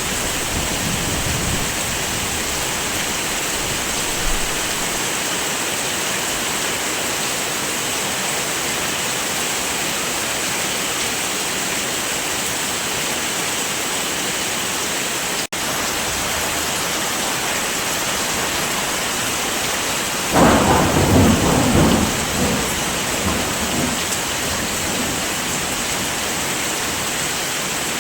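Heavy rain falling in a steady hiss, with a rumble of thunder breaking in about twenty seconds in and rolling for a couple of seconds. The sound cuts out for an instant about halfway through.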